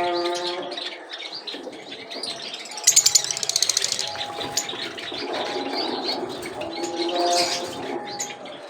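Mixed cage birds chirping and twittering, with a rapid trill about three seconds in.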